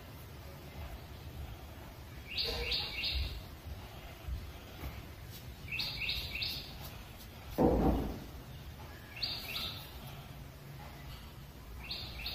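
A bird calling: a quick run of three high chirps, repeated four times about every three and a half seconds. A short dull thump a little past the middle is the loudest sound.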